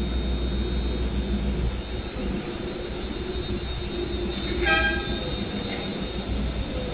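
Electric multiple-unit passenger train moving slowly along the platform: a steady low running rumble with a thin high whine, and one short toot about two-thirds of the way through.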